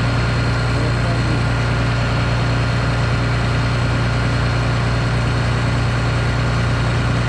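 Case IH 2144 combine's diesel engine running at a steady, even speed, heard from inside the cab as a constant low drone.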